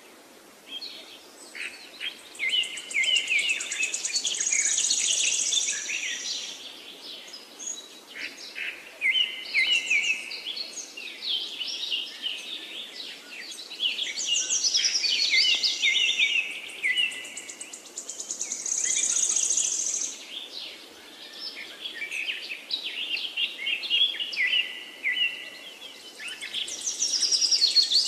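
Birds singing in a busy, overlapping chorus of chirps and trills, with a buzzy high-pitched note coming in every few seconds.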